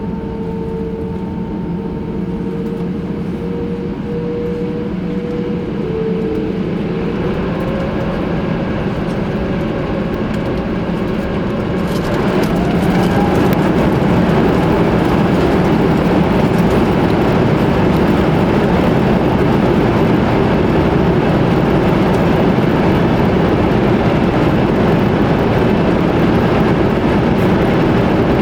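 The Airbus A350-1000's Rolls-Royce Trent XWB turbofans heard from inside the cabin over a steady rumble. The engine whine slides up in pitch from about six seconds in, and about twelve seconds in the sound gets louder and stays there as the engines spool up.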